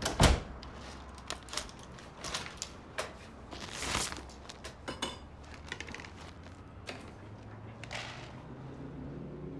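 A door shut with a heavy thud at the start, followed by scattered clicks, knocks and clatter of things being handled, over a low steady hum.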